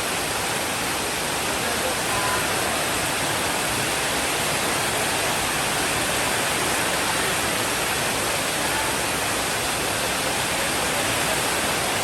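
Steady rainfall: a dense, even hiss that holds at one level throughout, with no thunder.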